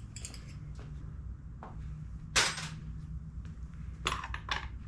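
Metal hand tools clinking and knocking against metal, with one louder clank about two and a half seconds in and a quick run of clicks near the end, over a steady low hum.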